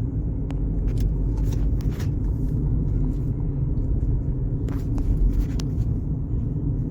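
Road noise inside a moving car's cabin: a steady low rumble of engine and tyres, with a few faint ticks.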